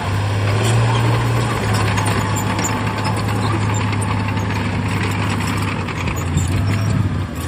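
Heavy diesel engine of earthmoving machinery running steadily with a deep hum, its pitch dropping slightly after about a second and a half, with light mechanical rattling over it.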